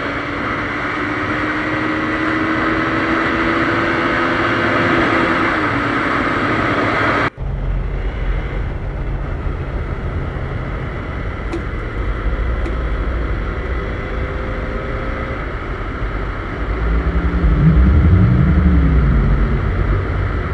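Single-cylinder engine of a KTM Duke 390 motorcycle running on the road, with wind rush over it. About seven seconds in the sound cuts abruptly to a deeper, rumbling engine note. Near the end the engine revs up and back down.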